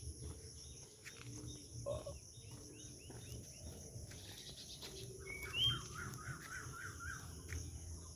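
Several songbirds chirping and calling in the morning: runs of short repeated notes, and one whistled note that rises about halfway through into a quick series of chirps. A steady low rumble runs underneath.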